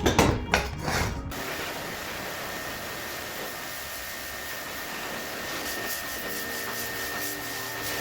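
Quick scrubbing strokes, about five in the first second and a half, then a steady faint hiss.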